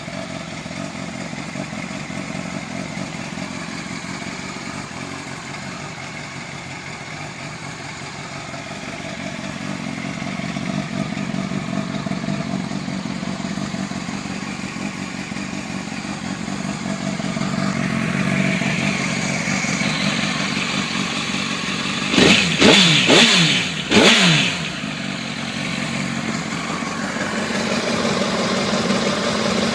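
Motorcycle engine running at idle, then revved in a few quick throttle blips about three-quarters of the way through before settling back to idle.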